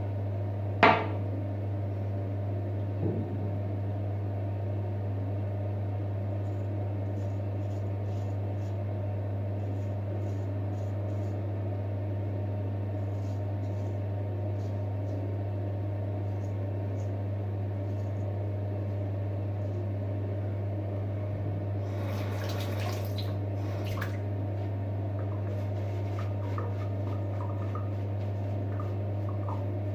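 Steady low hum of room ventilation, with faint short scrapes of a straight razor cutting stubble. There is a sharp click about a second in and a brief rush of water about two-thirds of the way through.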